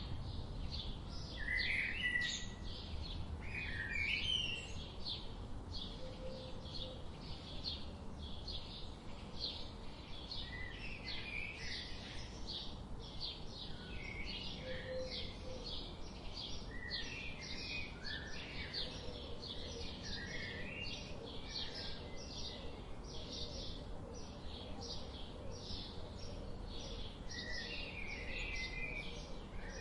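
Birds chirping: one bird repeats a short high chirp about twice a second without a break, while other birds call with lower, scattered chirps over a steady low background noise.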